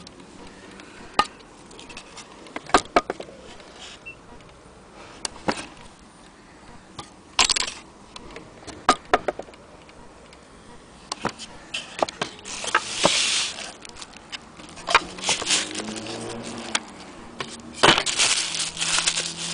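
Irregular clicks and knocks with short bursts of rustling, the noise of the old HAC mantle clock being handled and moved about. The clicks come unevenly, not as a steady tick, and the rustling is loudest about two-thirds of the way through and near the end.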